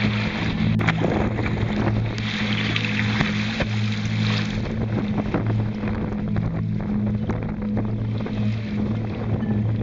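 Wind on the microphone and sea-water noise from out on the water, over a steady low hum that swells and fades.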